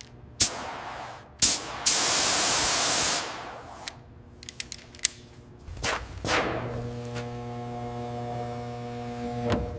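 Sharp clicks and a hiss burst of about a second and a half, typical of a paint spray gun being triggered, followed by scattered clicks and then a steady hum.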